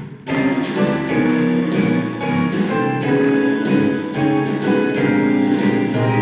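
Music: a saxophone ensemble playing a melody in layered, held notes with accompaniment, coming back in abruptly just after a brief dip at the start.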